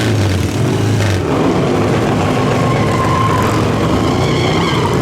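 Motorcycle engines running loud and close, a steady rumble of several machines at once.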